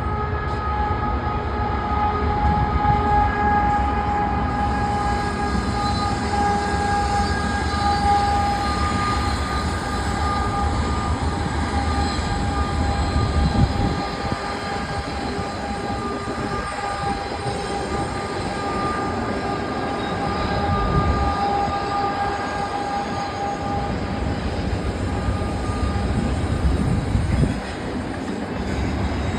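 Auto rack freight train rolling past: a steady low rumble of wheels on rail with long, steady, high-pitched wheel squeal that fades out near the end.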